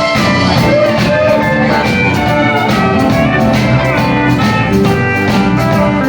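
Live country band playing the instrumental opening of a song, electric guitar over a steady drum beat and bass.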